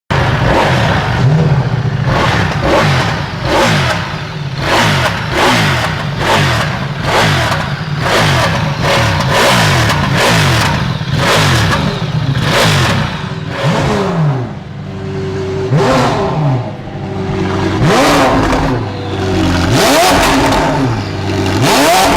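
Superbike engines revving hard and accelerating, the pitch climbing and dropping back again and again as they shift up through the gears.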